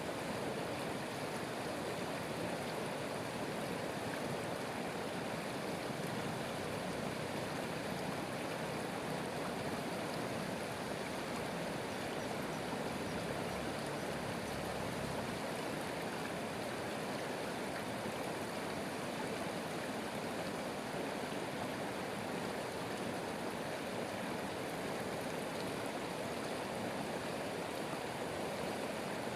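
Water running steadily in a stream, an even, continuous rushing with no pauses.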